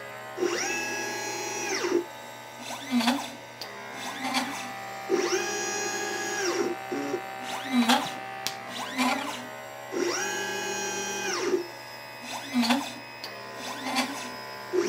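LitePlacer pick-and-place machine's stepper motors whining as the gantry travels, the pitch rising, holding and falling with each move: three long traverses, with short lower buzzes and clicks between them as parts are picked and placed.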